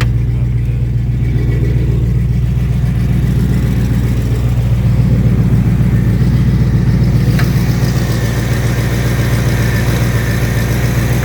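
Mild 350 small-block Chevy V8 running steadily on its cold-start high idle, about 1,000 rpm, through headers and a Flowmaster 40-series muffler. A single sharp click about seven seconds in.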